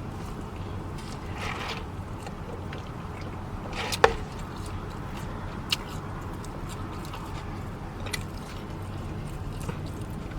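Close-up chewing and mouth sounds of someone eating a sub sandwich, with a few soft clicks and one sharp click about four seconds in, over a steady low hum.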